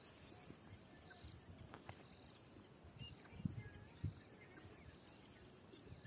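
Near silence: faint, short bird chirps and a few soft thumps, the two loudest around the middle.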